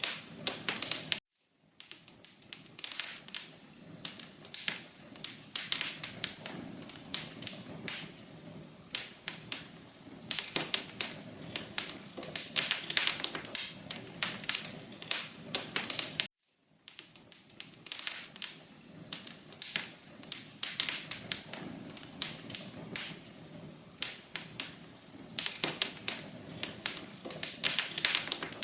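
Wood fire in a fireplace crackling, with dense irregular pops and snaps over a low hiss. The sound cuts out completely for a moment twice, about a second in and about halfway through.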